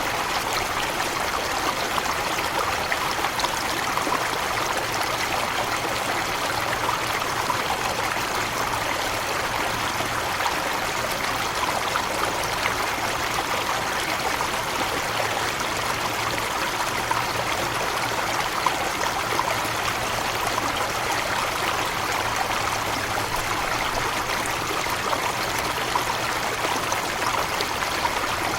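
Steady rushing and splashing of a forest waterfall, a constant wash of water noise.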